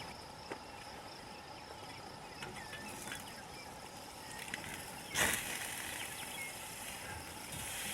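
Crickets chirring steadily with scattered short bird chirps and the faint sizzle of a steak on a grill. A single sharp knock about five seconds in is the loudest sound.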